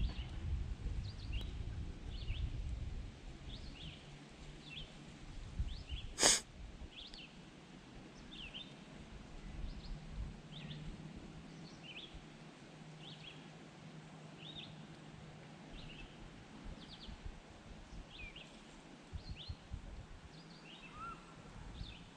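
A bird calling over and over with short high chirps, about one a second, over low outdoor background noise. A single sharp click about six seconds in is the loudest sound, and there is a low rumble in the first few seconds.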